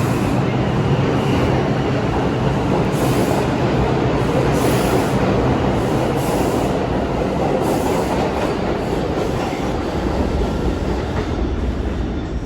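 New York City subway train running on the rails: a loud, steady rumble of wheels and cars with some wheel squeal.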